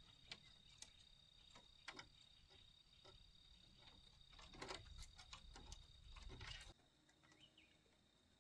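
Near silence: faint scattered clicks and light knocks over a steady high-pitched whine, which drops away abruptly near the end.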